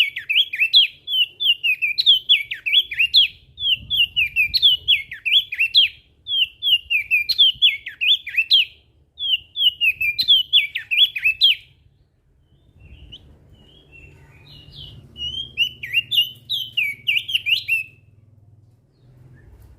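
Crested white-eye (opior jambul) singing: fast, high chirping phrases of about a second each, repeated with short pauses. The song breaks off about twelve seconds in, gives a few fainter notes, then runs on again until near the end. A faint low hum runs underneath.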